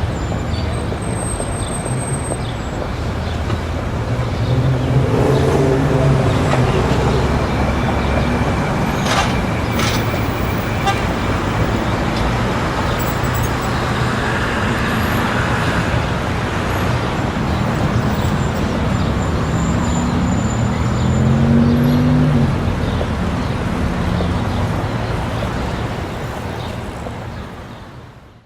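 City street traffic: a steady wash of road noise with vehicle engines passing, one around five seconds in and another around twenty seconds in, and a brief car horn toot about nine seconds in. The sound fades out near the end.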